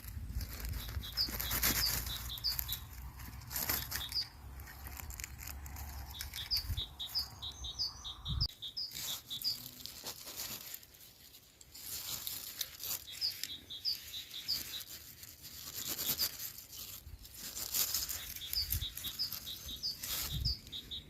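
Rustling and crackling with high-pitched chirping that comes in short runs of quick repeated notes every few seconds.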